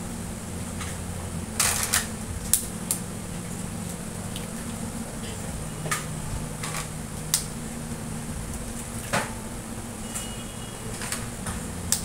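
A metal spatula knocking and scraping against a pan while fried rice is stirred, about a dozen irregular clatters over a steady low hum.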